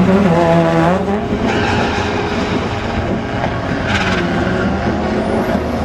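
Car engine revving, its pitch rising and falling near the start, then running on more steadily.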